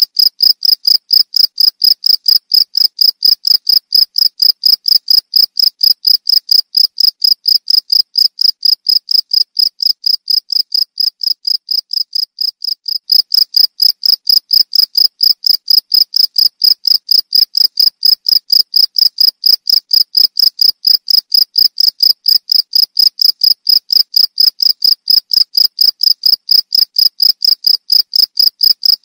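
Cricket chirping in a steady, even train of chirps at one high pitch, about three a second. The chirps grow slightly softer about ten to thirteen seconds in.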